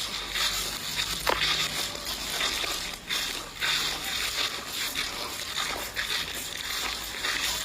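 Water sloshing and splashing in shallow swamp water, in irregular short splashes over a steady outdoor hiss.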